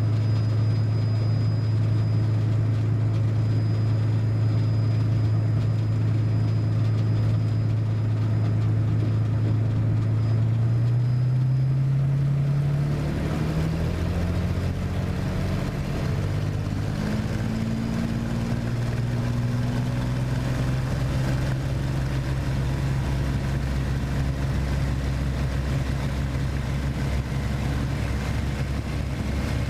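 Piston aircraft engine running with a steady drone. About halfway through, the pitch rises and the sound shifts, then settles into a new steady drone.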